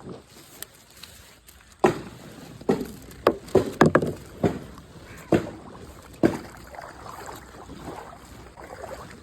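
Kayak paddle striking the water: a run of about eight sharp splashes and knocks between about two and six seconds in, several in quick succession in the middle, then softer sloshing of water.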